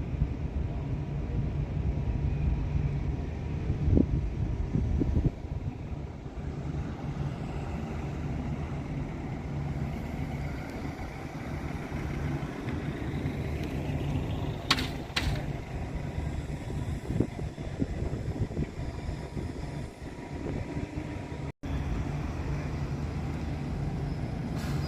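A vehicle engine running steadily, a low droning hum with a wash of travel noise. Two sharp clicks come about fifteen seconds in.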